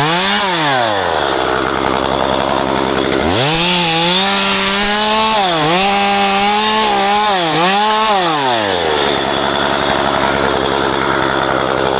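Two-stroke chainsaw engine idling, blipped once, then held at high revs for several seconds with two brief dips before dropping back to idle.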